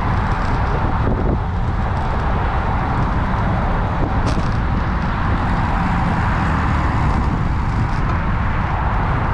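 Steady wind rush and road rumble on a moving action camera's microphone, an even noise with a heavy low rumble and no break.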